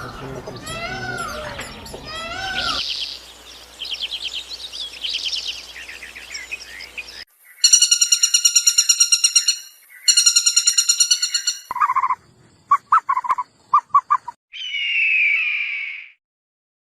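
A string of different animal calls cut one after another: arching chirps and trills, then a fast pulsing call in two long bouts, a few short chirps, and a harsh squawking call near the end.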